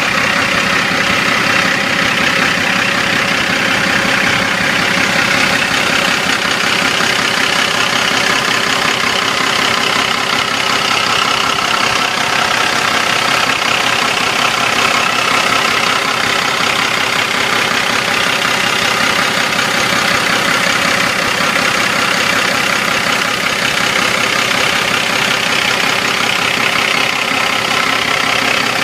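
Cummins ISX diesel engine of a 2004 International dump truck idling steadily.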